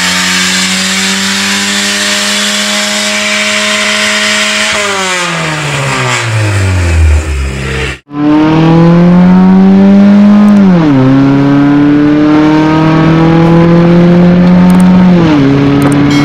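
A car engine at high revs, its pitch climbing slowly, then falling away for about three seconds. After a sudden break about halfway, a car accelerates hard through the gears: the engine note climbs, drops at two upshifts a few seconds apart, and climbs again after each.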